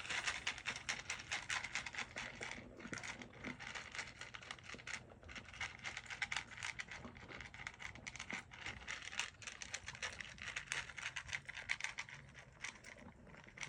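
Bichon Frise puppy eating hungrily from its bowl: a quick, unbroken run of small crunches and clicks.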